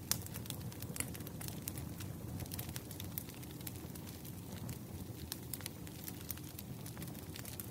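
Bonfire crackling: irregular sharp pops and snaps over a low steady rumble of burning wood.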